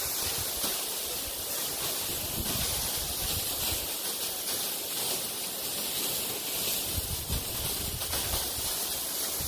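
Steady rushing of a tall waterfall's falling water. Irregular low rumbles from the air blast off the falls buffet the microphone, strongest near the start and again in the last few seconds.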